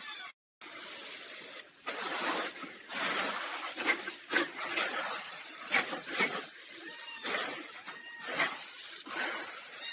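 Loud animal hissing in repeated bursts about a second apart, with a few short pitched cries among them, from the soundtrack of an AI-generated cat-versus-snake fight.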